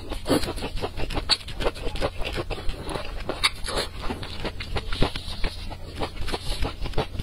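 A person biting and chewing saucy, spicy food close to the microphone, with a steady run of wet, crackly mouth clicks.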